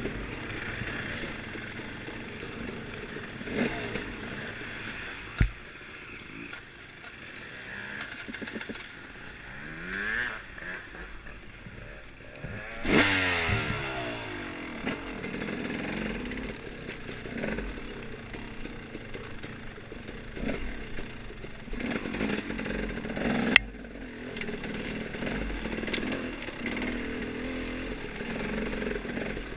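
Off-road dirt bike engine riding a woods trail, the revs rising and falling with the throttle, with a few sharp knocks and clatter from the bike over rough ground. The strongest knock comes about two-thirds of the way in.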